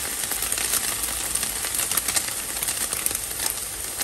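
Hot oil sizzling and crackling steadily around an egg-battered squash blossom frying in a pan, with a constant scatter of small pops.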